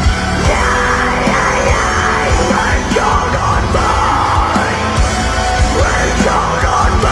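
Loud heavy rock music, an instrumental stretch of the song with dense, driving sound and repeated drum-like hits.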